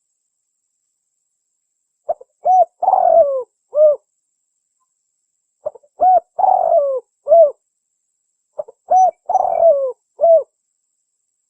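Spotted dove (tekukur) cooing: three calls about three seconds apart, starting about two seconds in. Each call is a couple of quick short coos, a longer falling coo, and a final short coo.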